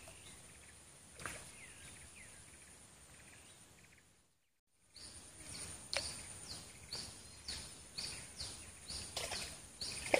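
Swamp-forest ambience: a faint steady high-pitched hum with a couple of soft knocks, then, after a brief dropout just before the halfway point, a bird calling repeatedly in short, falling chirps about twice a second.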